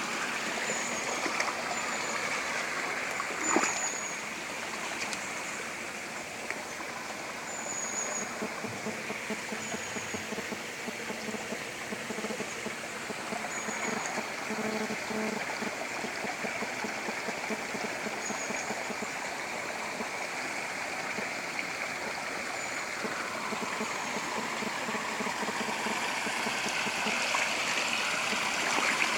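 Spring water running and trickling steadily in a stream, with faint high chirps every few seconds and a brief knock about three and a half seconds in.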